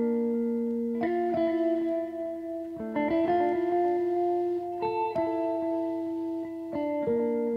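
Guitar playing slow, ringing notes and chords. New notes are struck in pairs every second or two and let sustain.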